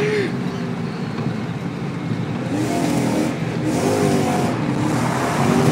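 BMW's V8 engine, heard from inside the cabin, being revved hard while the car slides, its pitch rising and falling repeatedly from about halfway in over a steady hiss of road and tyre noise.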